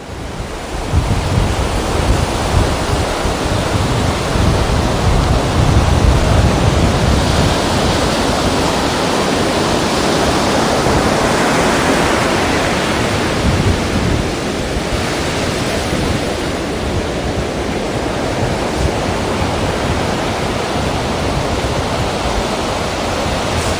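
Ocean surf breaking and washing ashore, a continuous rushing noise that swells and eases in slow surges, fading in at the very start.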